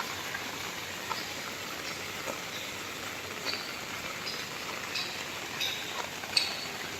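Steady rain falling, with scattered short high-pitched notes over it.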